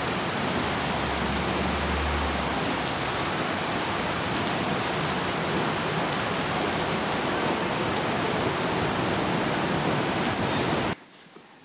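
Steady rain falling on wet paving, an even hiss that cuts off suddenly near the end.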